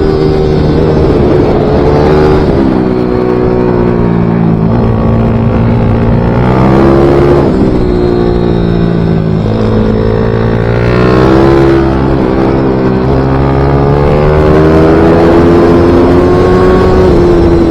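Small racing motorcycle engine of a MiniGP/pit bike at full effort on track, its pitch rising and dropping back several times as it accelerates, shifts and slows into corners.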